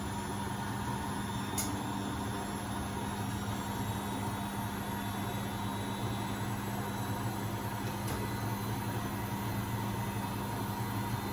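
Beko WMB71642W washing machine in its final spin at 1000 rpm: a steady motor whine and drum hum at constant speed, with one faint click about one and a half seconds in.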